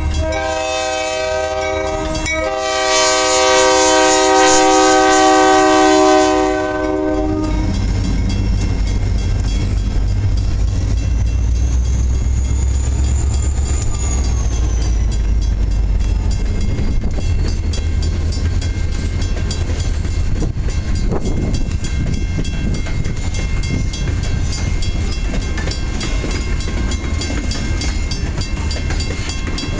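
Locomotive air horn sounding several tones at once for the grade crossing, with a short break about two seconds in, loudest from about three to six seconds and cutting off about seven seconds in. After it comes the low rumble and clickety-clack of the freight train rolling past.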